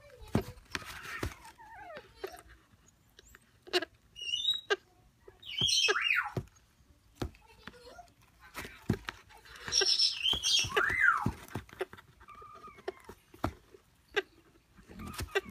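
Baby African grey parrots calling: squeaky whistled cries, a couple of them sliding downward in pitch, among scattered short clicks.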